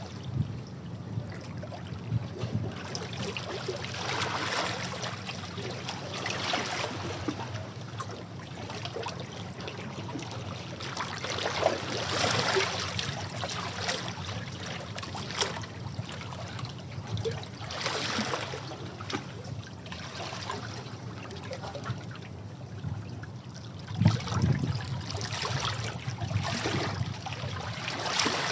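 Sea waves washing against rocks, each surge swelling into a hiss of water and draining back every few seconds, with a sharper splash about 24 seconds in.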